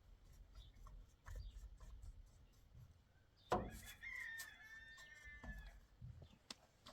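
A rooster crows once, about halfway through, in a call lasting about two seconds, amid faint scattered clicks and knocks.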